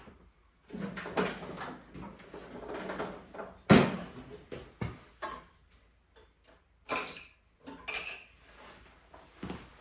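Metal hand tools clinking and knocking irregularly as sockets are handled to remove a snow blower's spark plug, with one louder knock about four seconds in.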